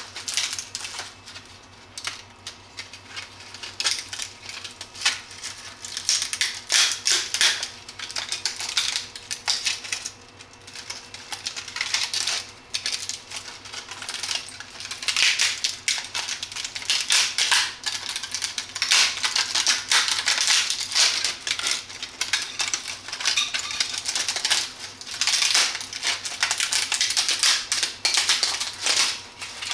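3D-printed plastic support material being snapped and peeled off a printed part by hand: dense, irregular bursts of sharp plastic clicks and crackles.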